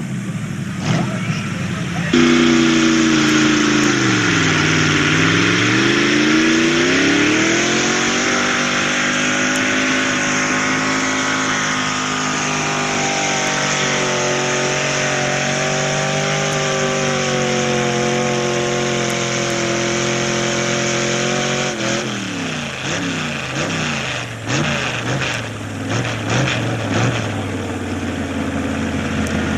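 Two-wheel-drive pickup truck's engine at full throttle on a truck pull for about twenty seconds. It opens up suddenly a couple of seconds in, sags in pitch under the load, climbs back and holds a steady high pitch, then cuts off near the end and winds down.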